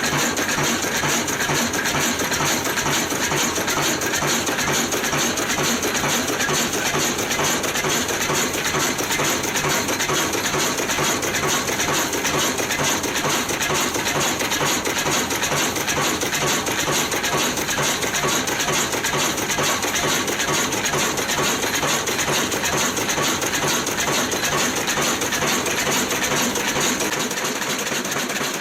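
Old Ruston & Hornsby stationary diesel engine running steadily, with a fast, even metallic clatter.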